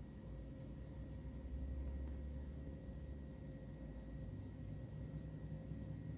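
Hands rubbing and massaging a cat's fur, a soft scratchy rubbing over a low rumble.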